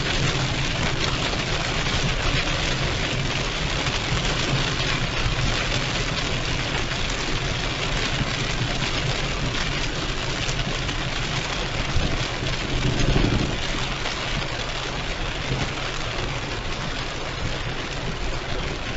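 Heavy rain on a moving car, a steady hiss over the low rumble of the engine and tyres on the wet road, swelling briefly about twelve seconds in.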